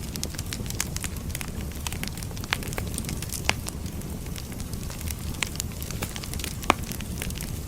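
Wood fire crackling: frequent small pops and snaps over a low steady rumble, with two louder pops, one about halfway through and one near the end.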